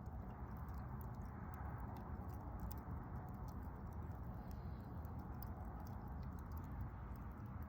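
Wood campfire burning: frequent small crackles and pops from the burning wood over a steady low rush.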